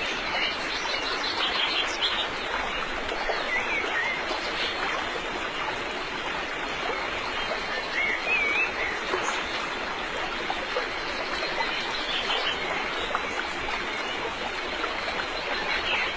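Steady rush of flowing water, with a few short bird chirps now and then.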